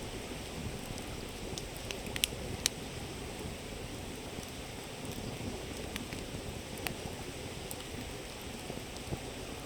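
River flowing with a steady rushing murmur, with a wood campfire crackling over it in a few sharp pops, the loudest two a little after two seconds in.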